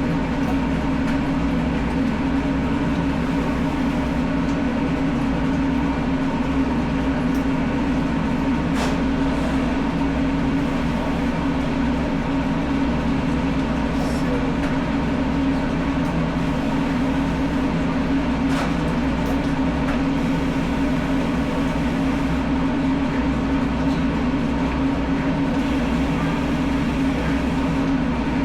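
Steady low mechanical hum of running machinery, unchanging throughout, with a few faint ticks.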